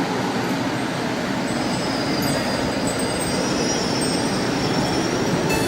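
Passenger train running along the track: a steady rumble and rattle of rail noise. Faint high-pitched tones join in about two seconds in.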